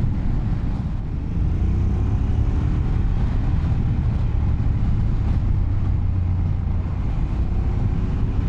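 Motorcycle engine running under way on a winding mountain road. The engine note rises about a second in as it accelerates, then holds steady.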